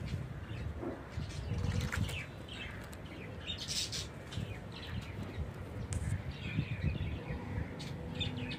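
Birds chirping in short, scattered calls over a constant low rumble.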